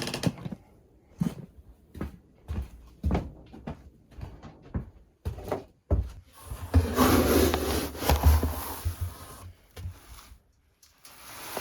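Footsteps crunching through fresh snow, a short step sound about every half second to second. About seven seconds in, a few seconds of loud rumbling noise with a deep low end cover the steps, like wind buffeting the microphone.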